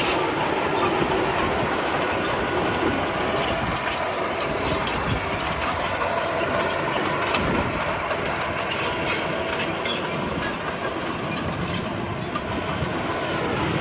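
Komatsu D31P crawler bulldozer running under steady engine power, its steel tracks clattering with a rapid run of metallic clicks.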